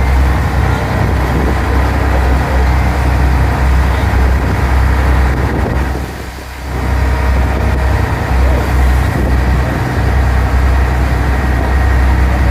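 Passenger ferry's engine droning steadily, heard on board during the crossing. The drone dips briefly about six seconds in.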